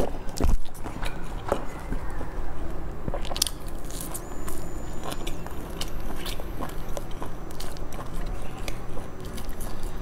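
Close-miked chewing of a soft pan-fried bun, with many small wet mouth clicks and occasional light crunches. A brief louder mouth sound comes about half a second in.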